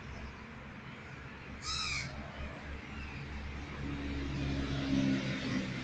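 A single short bird call, crow-like, about two seconds in, over a steady low hum; steady low droning tones join in during the second half.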